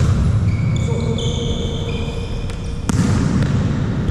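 Athletic shoes squeaking on a sports-hall court floor during a volleyball rally: a run of short high squeaks, then a sharp slap just before three seconds in, over the steady low rumble of the hall.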